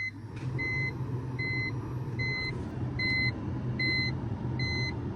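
An electronic warning beep repeating evenly, about every three-quarters of a second, over a low steady hum.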